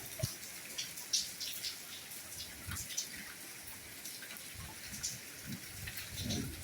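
Soft rainfall: a steady hiss with many individual drops tapping close by, and a few soft low thuds in the last two seconds.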